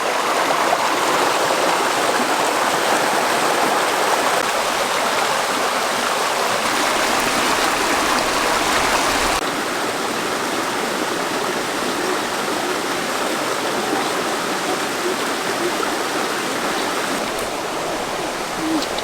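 Running water rushing steadily, like a stream, a little quieter after about nine seconds.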